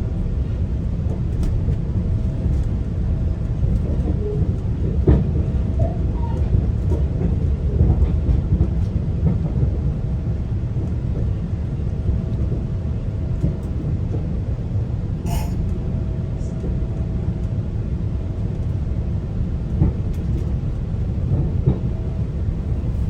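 GO Transit commuter train in motion: a steady low rumble of wheels on the rails, with scattered small clicks and one sharp click about fifteen seconds in.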